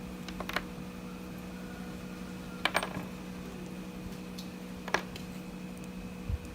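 Small metal parts of an old nail gun being handled on a work surface: a few sharp clicks and taps, two near the start, a double click in the middle and another later, then a dull knock near the end. A steady hum runs underneath.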